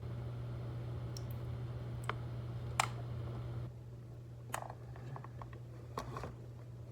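A scattering of light clicks and taps, about half a dozen, over a steady low hum that drops away a little past halfway.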